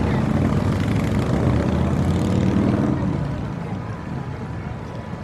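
Low engine rumble, loud at first and fading away from about three seconds in, as something with an engine passes.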